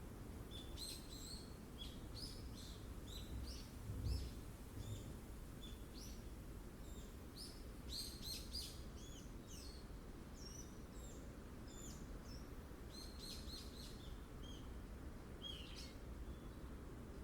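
Small forest birds chirping in scattered clusters of short, high calls over a steady low rush of strong wind, with a louder gust about four seconds in.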